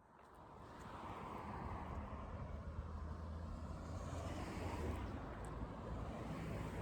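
Road traffic: a motor vehicle's engine hum and tyre noise, fading in over the first second and then holding steady.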